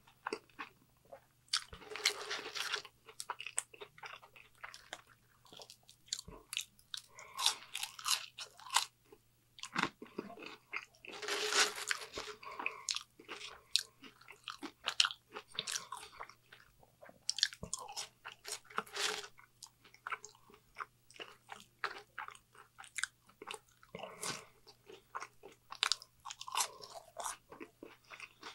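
Close-miked eating: biting and chewing crunchy fried fast food such as French fries, with crisp crunches coming in spells of chewing separated by short pauses.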